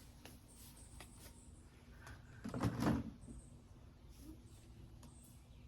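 A single brief knock and scrape of something being handled, about two and a half seconds in and lasting about half a second, over a quiet background.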